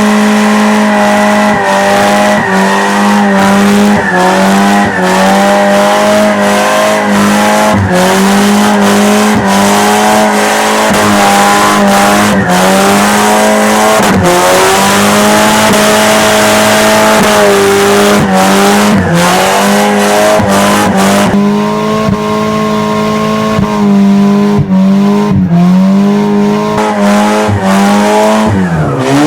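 2.2-litre four-cylinder car engine held at high revs in a burnout, tyres spinning and squealing on a tow truck's flatbed, the engine pitch wavering and dipping every couple of seconds. About three quarters of the way through the tyre hiss drops away while the engine keeps running, and near the end the revs fall sharply and climb again.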